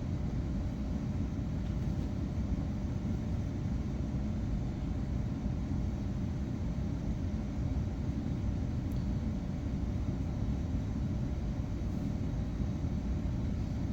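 Steady low rumble of running boiler-room machinery, an even drone that does not change.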